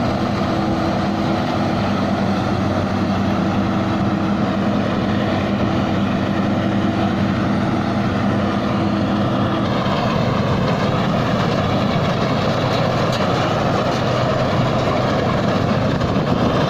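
Engine of a Thai Seng rice combine harvester running under heavy load as it works through deep mud with its grain tank nearly full: a steady engine drone whose tone shifts about ten seconds in.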